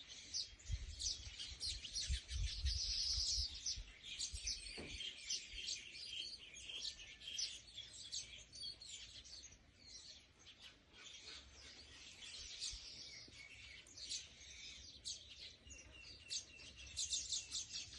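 Small birds chirping and twittering in quick, high-pitched notes, several calls overlapping. A low rumble sits under the first few seconds.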